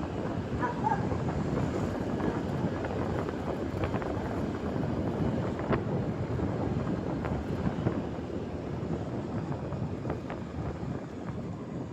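Wind buffeting the microphone of a motorcycle in motion, a steady low rushing with road and engine noise under it and a few short clicks.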